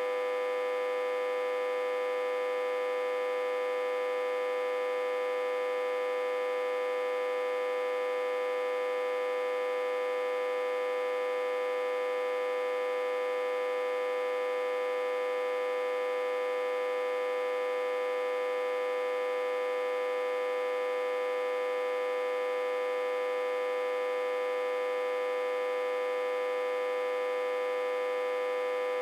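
Autotransformer humming steadily, reverse-connected to a step-down transformer and fed about 60–80 V. The hum holds one strong mid-pitched tone with many fainter overtones above it and no deep rumble beneath.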